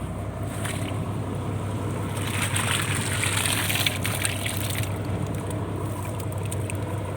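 Purse seine fishing boat's engine running steadily under splashing, trickling water, the splashing swelling for a couple of seconds midway.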